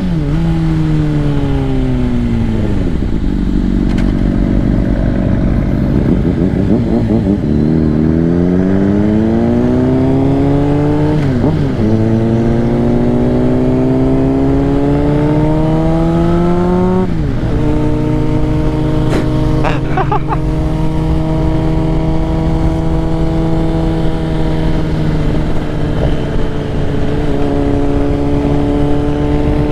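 Honda CBR600RR inline-four with a Two Brothers full exhaust under way. The engine note falls as the bike slows, then climbs through the gears with two upshifts, each a sudden drop in pitch. After the second shift it settles into a steady cruise.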